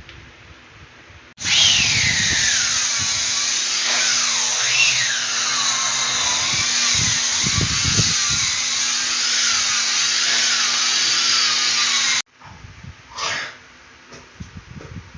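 Handheld electric power tool running under load, its motor whine dropping and wavering in pitch as it is pressed to the work. It starts abruptly about a second and a half in and cuts off abruptly about three seconds before the end.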